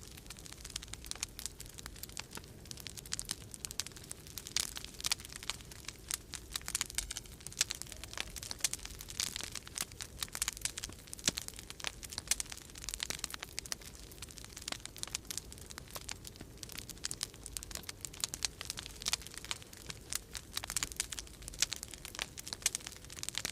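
Wood fire in a fireplace crackling, with dense, irregular pops and snaps throughout, over a steady low rumble of winter storm wind.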